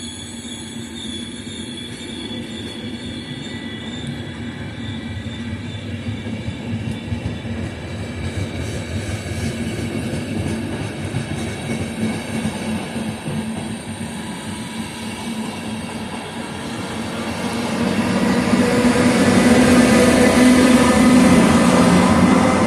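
Intercity passenger train rolling through a station, its wheels rumbling on the rails with some squeal. It grows louder near the end as the last vehicles pass close by.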